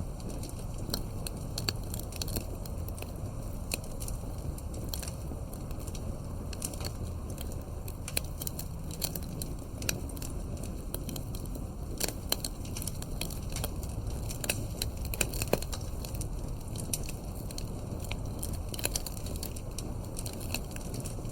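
Wood fire crackling: irregular sharp pops and snaps over a steady low rumble of burning, with the occasional louder pop.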